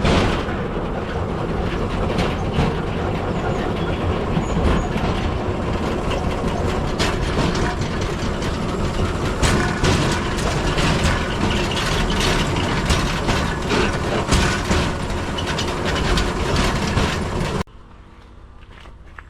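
Rail bike's steel wheels rolling and clattering along old railway track, with frequent clicks and knocks. The sound stops abruptly near the end.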